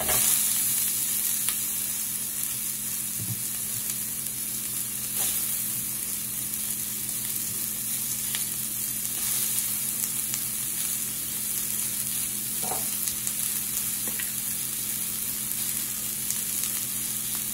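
Sliced bell peppers sizzling in a preheated frying pan: loudest just as they go in, then settling to a steady hiss with a few faint clicks.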